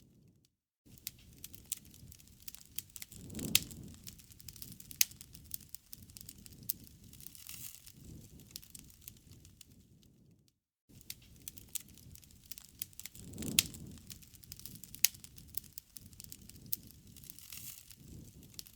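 Wood fire crackling: scattered sharp pops and snaps over the low rumble of burning. It cuts out briefly twice, about half a second in and about ten seconds in, and the same stretch of crackling plays again after the second gap.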